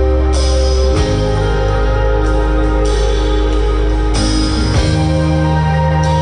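Live band playing an instrumental passage of a rock song: guitar chords held over bass and drums, with no singing.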